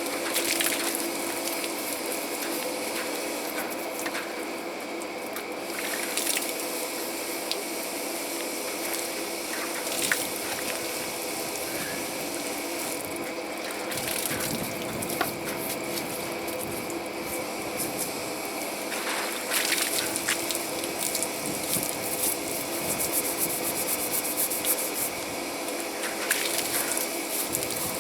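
Pressure washer running: the water jet hisses steadily against a surface over the constant hum of the washer's pump, with a few short sharp spatters.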